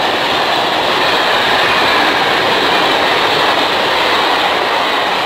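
Freight train of hopper wagons rolling past close by: a loud, steady rush of steel wheels on rail, with faint high ringing tones over it.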